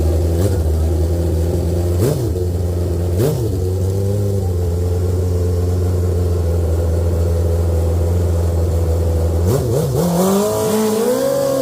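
Grudge drag-racing motorcycle engine idling loudly, blipped twice about two and three seconds in. Near the end it revs up and holds a higher, wavering pitch.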